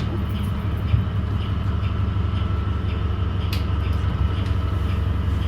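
Interior sound of a 2017 New Flyer XDE40 diesel-electric hybrid bus standing at a stop: a steady low hum with a thin, steady whine above it.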